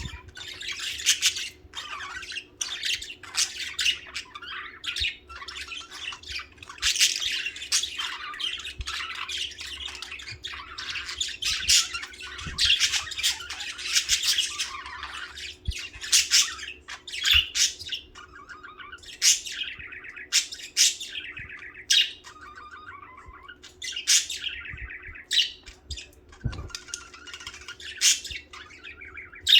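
Budgerigars chirping and warbling with sharp squawks, a busy chatter that thins to separate calls in the second half.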